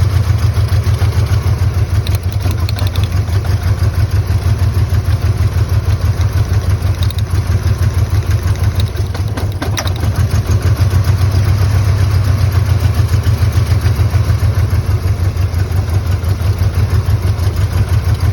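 1997 Ford Ranger's 2.3-litre four-cylinder, eight-spark-plug engine idling roughly with a heavy, even pulsing: an extreme misfire, running on only two or three cylinders.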